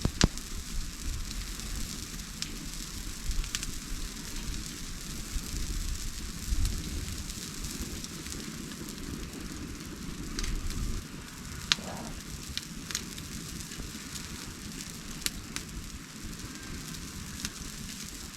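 Wood campfire burning, with a steady hiss and scattered sharp crackles and pops; the sharpest pop comes right at the start.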